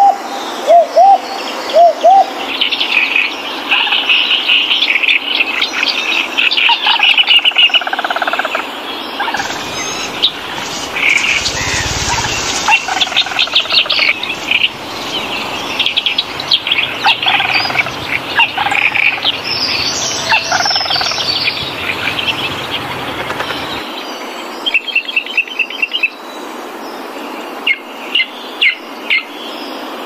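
Several wild birds chirping and twittering, with many high calls and trills overlapping, and a few short, low calls repeated in the first two seconds.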